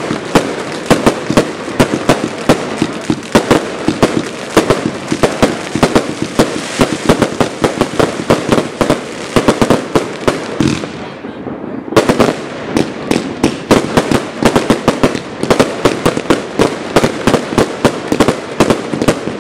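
Firework cakes firing a dense barrage of rapid bangs from launches and bursting shells. About eleven seconds in there is a brief lull, then the bangs start again abruptly.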